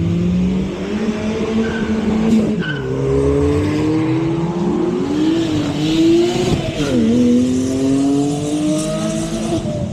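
Sports cars accelerating hard. The engine note climbs and drops sharply at upshifts about three and seven seconds in, with some tyre noise partway through.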